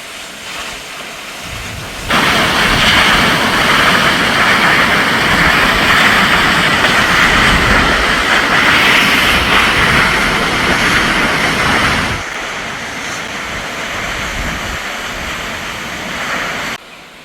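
Perrine Coulee Waterfall rushing: a steady, loud rush of falling water. It jumps louder about two seconds in, drops back around twelve seconds, and drops again near the end.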